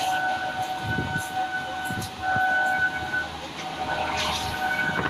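Running noise heard from aboard a moving MEMU commuter train, with a steady high-pitched tone that swells louder twice.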